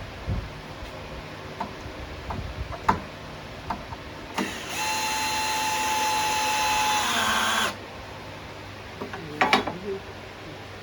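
Power drill driving a screw into framing lumber: a steady motor whine for about three seconds that dips slightly in pitch just before it stops as the screw seats. Light knocks of wood being handled come before it, and a short clatter follows near the end.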